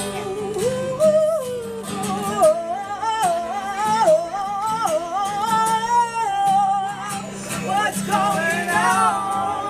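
A woman singing to her own acoustic guitar, a sung melody over strummed chords, with long held notes that waver in vibrato.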